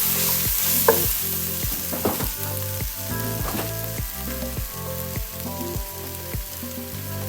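Vegetables sizzling as they brown in a hot soup pot, with the scrape and knock of a utensil stirring them.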